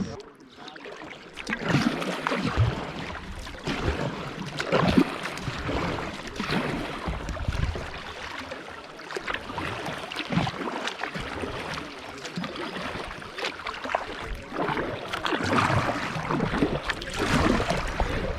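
Moving river water rushing and splashing around a kayak, with irregular splashes of paddle strokes.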